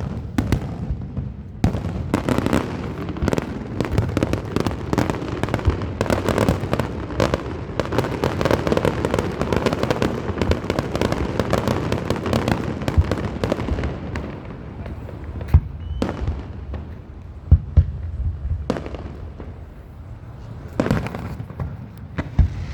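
Fireworks going off: a dense, continuous crackling and popping for about twelve seconds, then thinning out to a few separate loud bangs.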